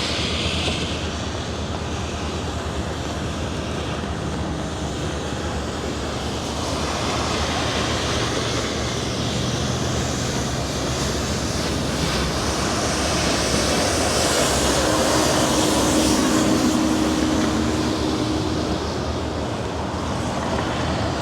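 Steady low engine rumble under a constant noisy wash, with a faint steady tone for a few seconds about three-quarters of the way through.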